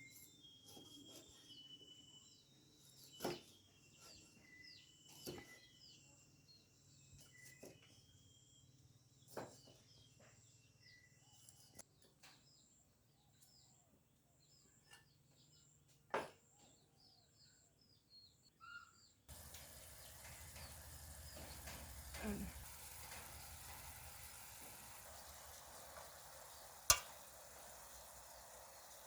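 Scattered light knocks and clicks over faint chirping, then about two-thirds of the way through a steady sizzle of food frying in a pan, with one sharp click near the end.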